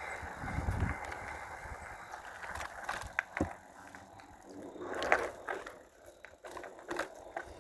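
Electric bike's wind and rolling noise fading out within the first second, then scattered light clicks and knocks from the bike's mechanism.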